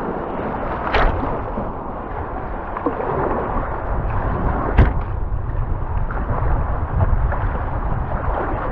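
Rushing river rapids making a steady roar of water, with two sharp knocks, one about a second in and one about midway.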